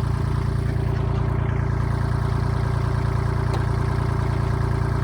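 Farm tractor engine running steadily with a low, even hum, as the tractor moves a chicken coop.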